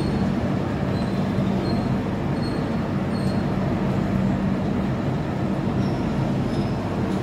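A train running on the rails: a steady rumble with a low hum, and faint short high squeaks that come every second or so.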